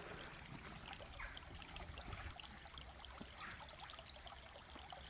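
Small Scottish burn (stream) faintly trickling and running over its bed.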